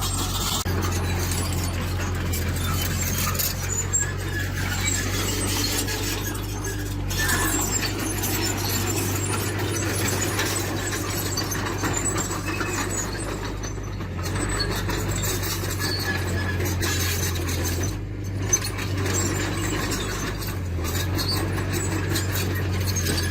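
Earthmoving machine's diesel engine running steadily, with intermittent high metal squeaks and clinks from its moving parts.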